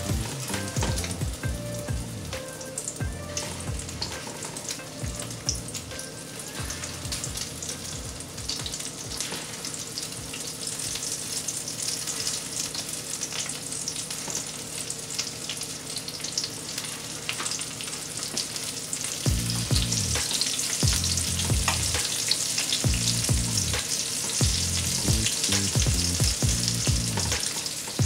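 Breaded shrimp frying in hot oil in a shallow pan: a continuous crackling sizzle that grows louder about a third of the way in as more pieces go into the oil.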